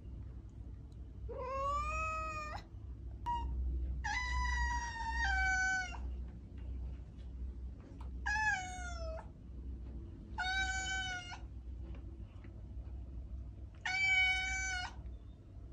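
A domestic cat meowing repeatedly: five drawn-out meows a few seconds apart, the second one longer with a drop in pitch partway through.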